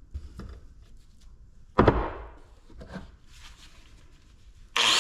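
Scrap-metal work: light taps and clicks, one loud knock about two seconds in that rings briefly, then a few smaller knocks. Near the end a handheld power tool starts suddenly and runs at a steady whine.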